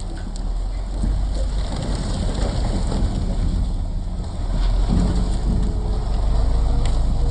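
Wheel loader's diesel engine running under load, with a rumbling, clattering cascade of split firewood tumbling out of the bucket. A faint rising whine comes in near the end.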